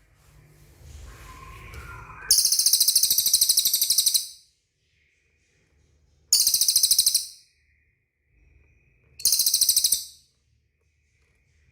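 Cililin bird calling in three loud bursts of a high, fast, rattling trill, the first about two seconds long and the other two about a second each.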